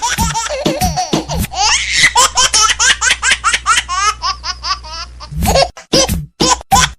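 A baby laughing in quick short bursts, with a run of fast high giggles in the middle and separate loud bursts of laughter near the end.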